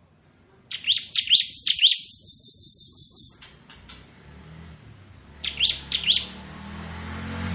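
Bar-winged prinia (ciblek) singing in its 'ngebren' drilling style: a few quick upward-sweeping notes lead into a rapid, even trill lasting about two seconds. About two seconds later come three more short rising notes.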